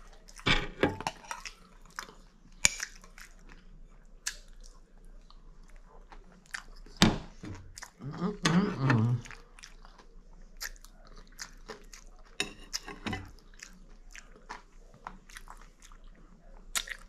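A person eating close to the microphone: chewing and crunching breakfast food, with irregular crisp bites and wet mouth clicks, louder clusters of bites near the start, about seven seconds in, and around eight to nine seconds.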